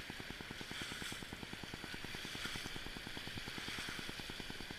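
River water rushing past a paddled raft, with wind buffeting the microphone in a rapid low flutter.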